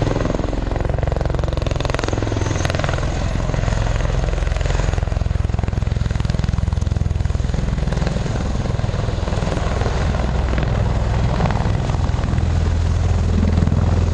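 Aircraft engine and propeller noise: a loud, steady low rumble with a fast flutter, holding without a break.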